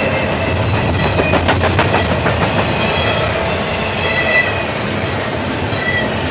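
Cars of a double-stack container freight train rolling past with a steady rumble of wheels on rail. A quick run of sharp wheel clicks comes a second or two in, and there are brief faint high squeals from the wheels later.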